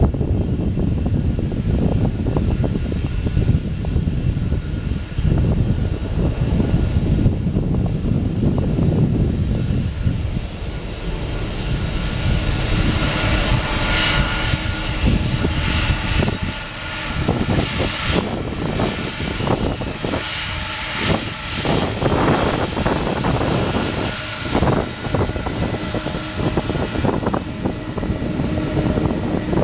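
Jet engines of a Boeing 747-400 running, a deep rumble that gives way about halfway through to a higher turbine whine with steady whistling tones over it.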